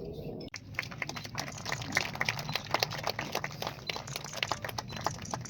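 Scattered clapping from a small crowd: many irregular claps of uneven loudness, starting about half a second in and thinning out near the end.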